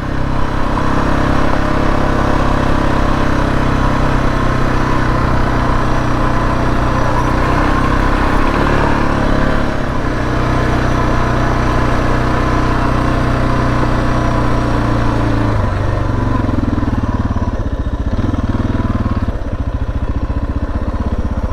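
Suzuki DR650's single-cylinder four-stroke engine running steadily under way at cruising speed, with wind rush. About three-quarters of the way through, the engine note drops and wavers lower.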